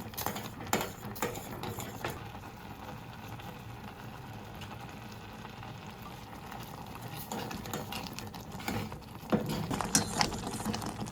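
A utensil stirring food and clinking against cookware, with sharp clinks just after the start and again near the end, and a quieter steady stretch of cooking noise between.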